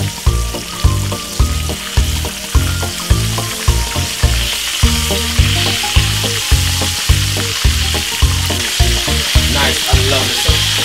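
Breaded beef cutlets sizzling steadily as they shallow-fry in hot oil in a frying pan. Background music with a steady beat plays over the sizzle.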